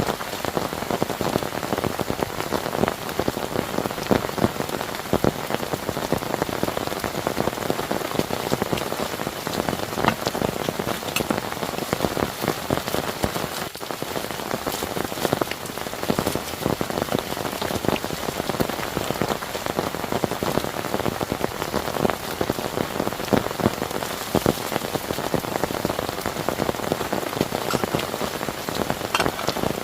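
Heavy rain falling steadily, a dense hiss of rain with many sharp individual drop hits on a surface close by.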